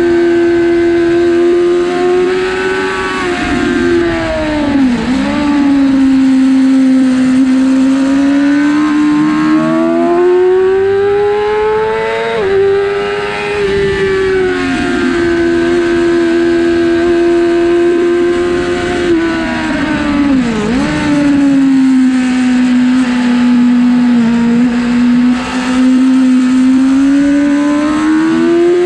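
A 2006 Yamaha R6's inline-four engine running hard on track. Its pitch holds high, climbs slowly and drops suddenly as it goes up through the gears, with sharp dips about five seconds in and again about twenty seconds in.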